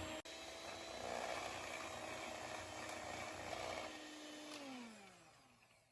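A small electric motor running with a steady hum, then switched off and spinning down, its pitch falling until it stops near the end.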